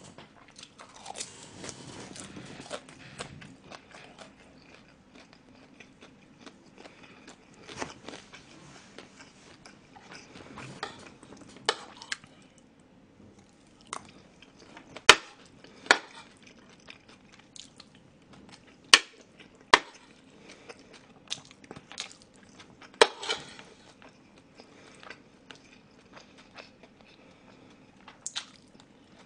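Close-miked chewing and eating: crunchy bites of a fried dumpling, then wet chewing of rice. A handful of sharp clicks of a metal spoon and chopsticks against the dishes, the loudest in the second half.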